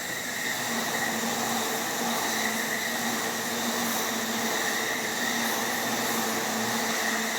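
Electric commuter train running past: a steady rail noise with a constant high whine over it.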